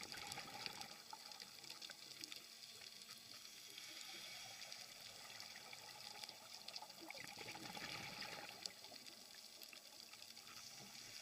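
Faint underwater sound of a scuba diver's exhaled bubbles gurgling, in two swells about seven seconds apart, over a steady crackle of small ticks.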